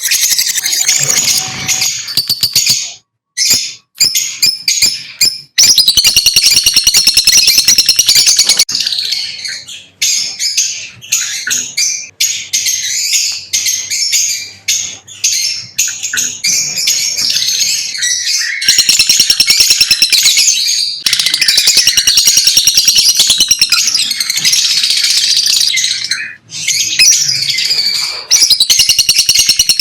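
Lovebirds chirping, a dense, rapid stream of shrill, high-pitched chirps and twitters, with short breaks about three to five seconds in and again near the end.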